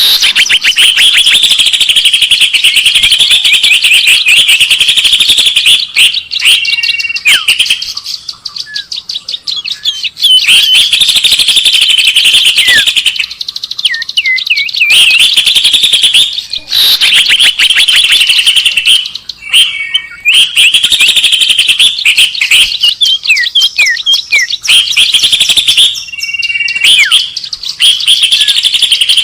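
Bird-lure recording of loud, dense, rapid bird chirping and chattering in long bursts, broken every few seconds by short pauses and brief repeated call notes.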